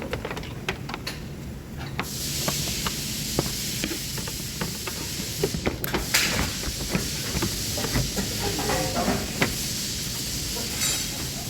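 A steady hiss starts suddenly about two seconds in and runs on, fading somewhat after about six seconds. Scattered clicks and knocks sound throughout, over a low background rumble.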